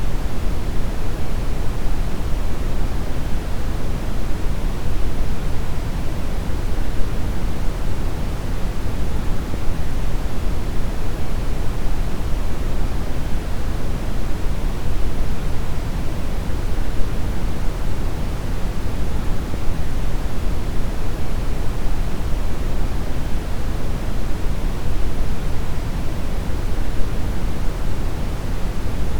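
Steady brown noise: an even, unchanging rumbling hiss weighted heavily toward the deep end, with much less in the highs.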